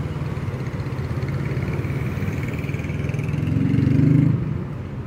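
Street traffic with combustion engines running. One car drives close past, its engine hum swelling to the loudest point about four seconds in and then fading away.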